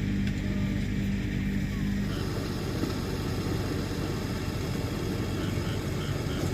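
An engine running steadily; about two seconds in its sound changes to a rougher, noisier running.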